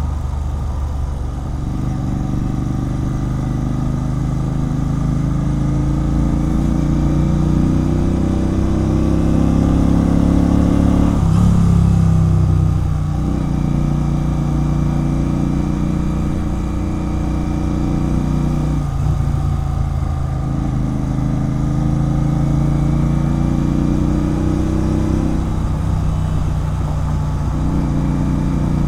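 Royal Enfield Continental GT 650's parallel-twin engine running through a loud RRP aftermarket exhaust while riding. The engine note is steady and dips briefly three times.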